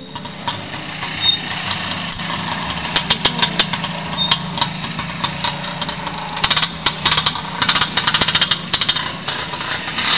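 Trials motorcycle engine running, with stretches of rapid, even pulses a few seconds in and again through the second half.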